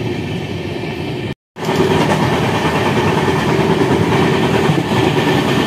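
Passenger train running along the line: a steady rumble and rattle of wheels on rails, with wind rushing past at the open coach door. The sound drops out for a moment a little over a second in, then carries on.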